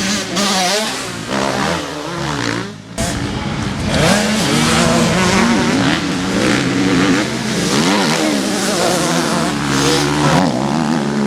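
Several motocross bikes racing, their engines revving with pitches rising and falling over one another. The sound dips briefly about three seconds in, then comes back louder.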